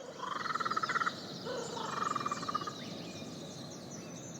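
Outdoor bird calls: two rapid rattling trills, one after the other, over a spread of small high chirps.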